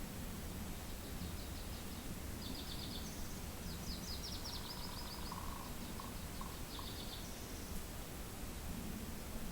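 Steady low wind rumble with small birds giving short, rapid trilled calls several times, high-pitched and clipped, plus a lower brief whistled note near the middle.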